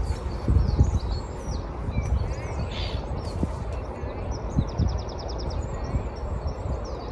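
Birds chirping and calling with short high notes and glides, including a fast even trill about halfway through, over a steady low rumble.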